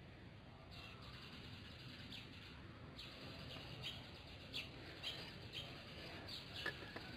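Faint, scattered bird chirps, short high notes at irregular intervals, over a quiet background hum.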